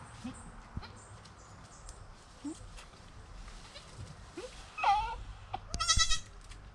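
Goats bleating in a pen with newborn kids: a few short soft low calls, then two louder bleats about five and six seconds in, the second high-pitched and the loudest.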